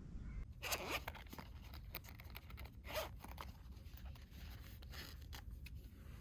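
A zipper being pulled in a few short runs, with light clicks of handling in between.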